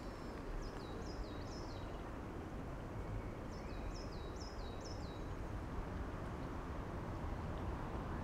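A small bird calling twice in quick runs of high, falling chirps, three notes and then four, over a steady low outdoor background rumble.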